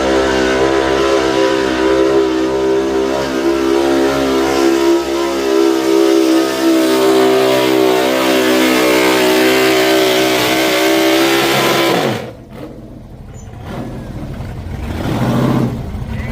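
Pulling truck's engine held at high revs under full load as it drags the sled. About twelve seconds in, the revs fall away sharply as the throttle comes off, followed by a short rev near the end.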